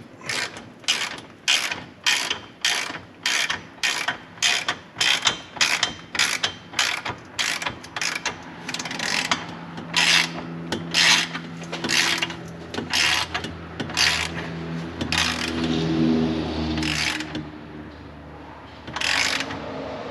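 Hand ratchet wrench clicking in quick strokes, about three a second, while tightening exhaust clamp nuts. After about eight seconds the strokes slow and grow irregular over a low steady hum, with a final stroke near the end.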